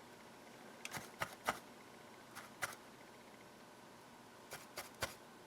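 Soldering iron tip being cleaned, giving a few faint, sharp clicks and taps in small clusters against a quiet background hiss.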